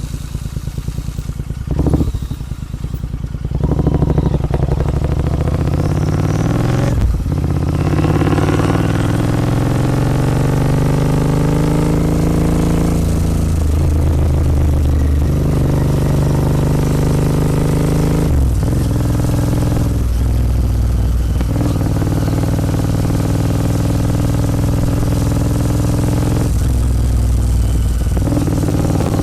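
Royal Enfield Continental GT 650 parallel-twin running through Red Rooster aftermarket exhausts while the bike is ridden. The exhaust note climbs in pitch as it accelerates, and several gear changes each make a brief dip before the note rises again.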